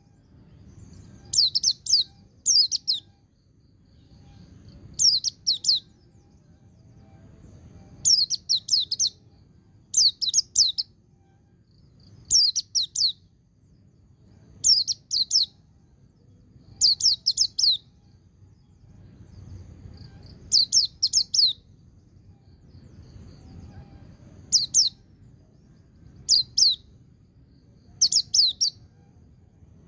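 A pleci (white-eye) singing in the ngecir-ngalas style: rapid, high-pitched twittering delivered in short bursts of about a second. The bursts come every two seconds or so, with brief pauses between them. A faint low rumble sits underneath.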